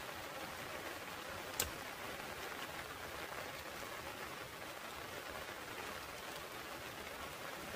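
Steady rain hiss, with a single sharp knock about one and a half seconds in as a knife blade strikes a dead-wood stick.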